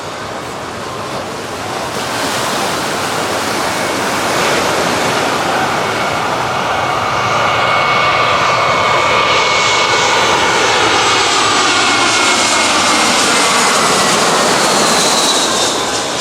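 Large jet airliner passing low overhead on its landing approach. The engine noise swells over the first few seconds and stays loudest for about seven seconds, while engine whines slide down in pitch as it goes by. It fades near the end.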